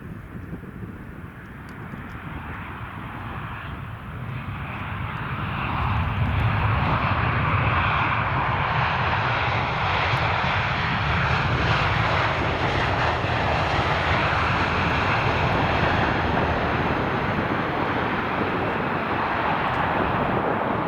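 Jet aircraft engines, growing louder over the first six seconds, then holding loud and steady.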